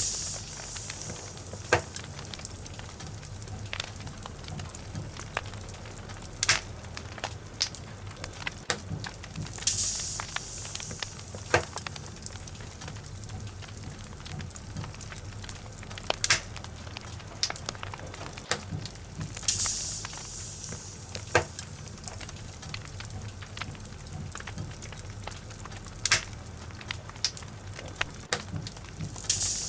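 Log fire burning in a fireplace: irregular sharp crackles and pops of the burning wood over a low steady rumble, with a brief hiss about every ten seconds.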